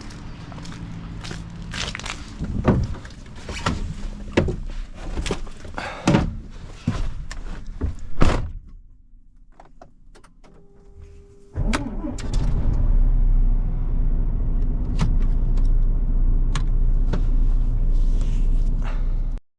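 A series of clunks and knocks over a low hum, ending in a loud clunk. After a quieter pause with a short steady tone, a truck's diesel engine starts about two-thirds of the way through and runs steadily at idle.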